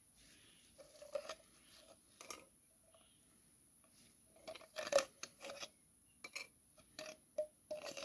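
Irregular light clinks and knocks of objects being handled, some with a short ring, coming in clusters, the loudest about five seconds in.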